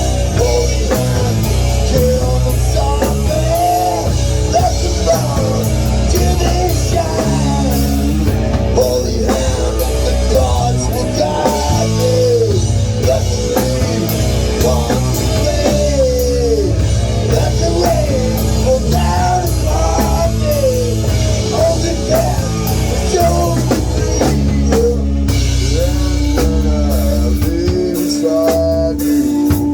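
Rock music: a band playing a song on drum kit, bass and guitar, with a voice singing the melody.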